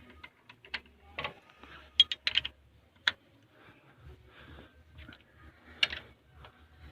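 Sharp, irregular metallic clicks and clinks of hand tools and engine parts being handled during a big-end bearing job on a truck diesel engine, about half a dozen separate strikes, the loudest about two, three and six seconds in.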